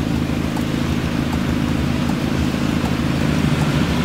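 A car engine idling steadily close by, with a steady hiss of rain.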